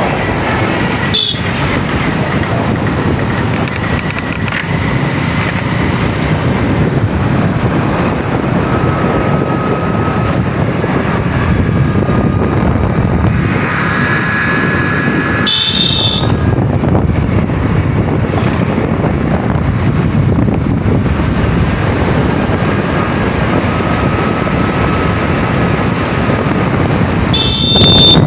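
Steady engine and road noise of a vehicle on the move, with short high-pitched sounds about a second in, about halfway through, and again near the end.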